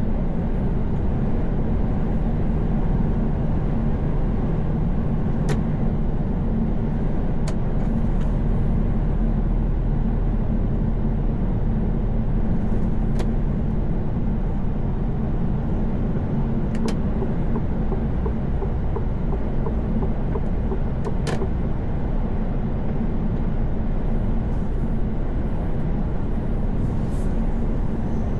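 A heavy truck cruising on a highway, heard from inside the cab: a steady low engine drone and road noise, with a few faint ticks now and then.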